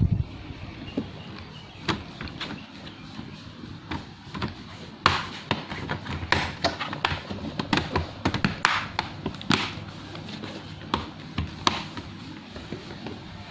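Irregular clicks, taps and knocks from hands handling an Asus X441B laptop's parts while installing RAM and an SSD, grouped most densely in the middle.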